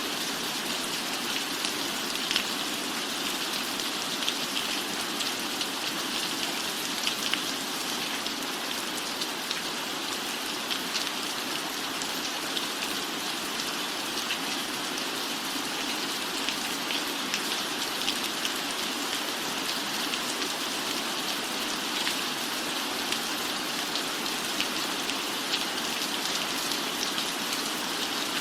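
Steady rain on a cabin roof, an even hiss with many small drop taps scattered through it.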